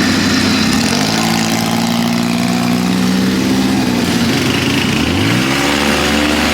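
ATV engine accelerating twice, its pitch rising about a second in, dropping back, and rising again about five seconds in, over a steady rushing noise.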